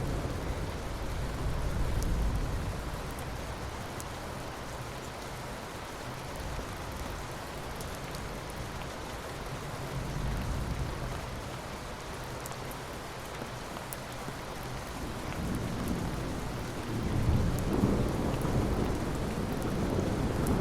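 Steady heavy rain hissing, with thunder rumbling in low swells, one about two seconds in, a weaker one about ten seconds in, and a longer, louder roll building from about seventeen seconds in.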